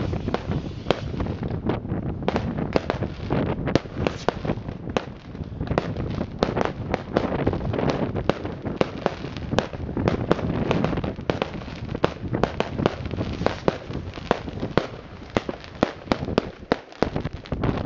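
New Year's Eve fireworks and firecrackers going off in quick succession: a dense, unbroken series of bangs and cracks, several each second.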